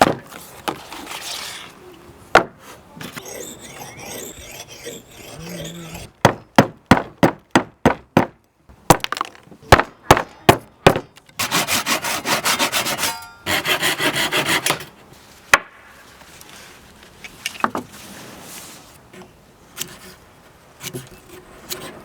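Hand tools working a maple handle blank. About six seconds in comes a run of sharp strikes on the wood, then quicker ones, then a few seconds of fast rhythmic rasping or sawing strokes, with quieter scraping and handling around them.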